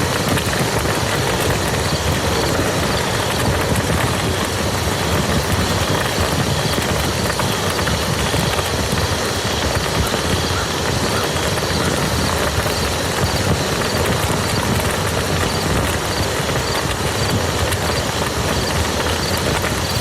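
Steady rain falling on a muddy field, a dense, even patter of drops with no let-up.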